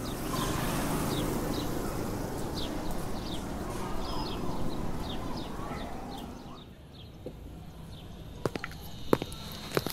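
Outdoor ambience of birds chirping in short, quick calls over a steady hiss, fading out about seven seconds in. A few sharp clicks and knocks follow near the end.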